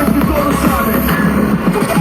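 Loud electronic dance music played live over a concert sound system; the heavy bass drops out near the end.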